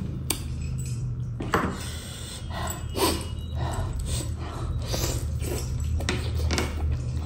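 A man chewing and smacking on mutton and rice eaten by hand, close-miked, with irregular wet mouth sounds and crackles.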